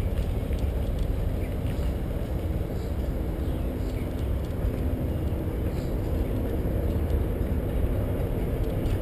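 Steady low rumble of wind buffeting the microphone along with tyre and road noise from a bicycle being ridden.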